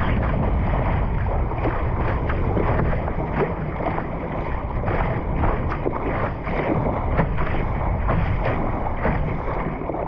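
Wind rushing on the microphone and water splashing and slapping against the hull of an ILCA 4 (Laser) sailing dinghy underway, with many short splashes.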